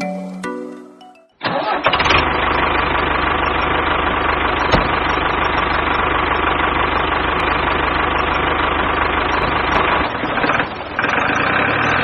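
After a short chime-like musical jingle, a miniature toy diesel engine starts abruptly about a second and a half in. It runs steadily with a fast firing beat, briefly dips near the end, then picks up again.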